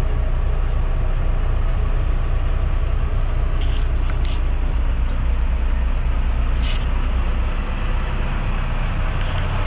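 Grain truck's diesel engine running steadily at low speed, a constant low drone with a few faint light ticks.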